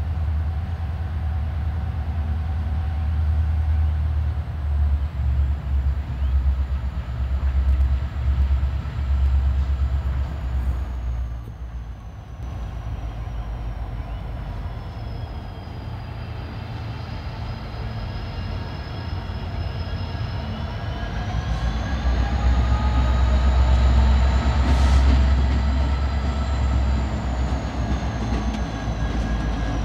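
Freight train rolling past at low speed: a steady low rumble, with a thin high-pitched squeal that slowly sinks and rises in pitch. The rumble eases about a third of the way in and swells again in the last third.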